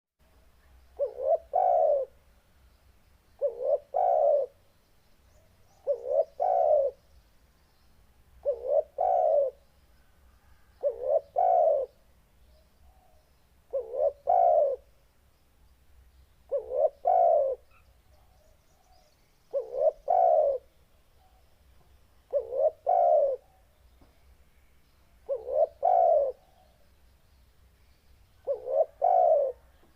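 Spotted dove (tekukur) cooing over and over, about once every three seconds: each call is two short notes and a longer, deep note. The calls are loud and low-pitched.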